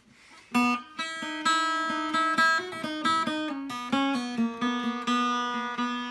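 Acoustic guitar playing an instrumental intro. It comes in sharply about half a second in, then plays chords and notes in a steady rhythm, with the notes changing every second or so.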